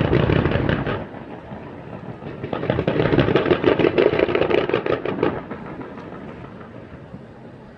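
Fireworks going off in rapid crackling volleys: one dies away about a second in, a second volley runs from about two and a half seconds to five, then the sound fades.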